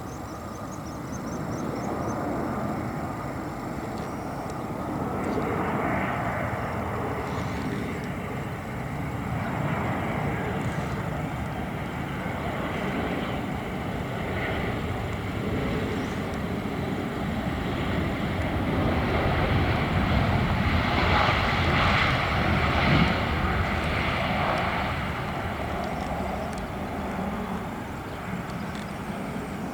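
Airliner's engines as it passes the airport, a steady rushing roar that builds slowly to its loudest about two-thirds of the way through and then fades away.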